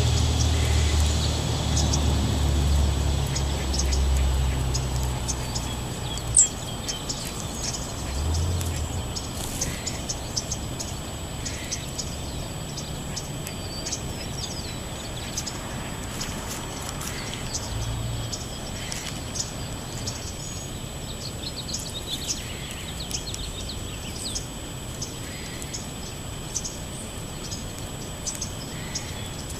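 Small songbirds chirping, many short high calls scattered throughout. A low rumble fades out over the first several seconds, and a single sharp click comes about six seconds in.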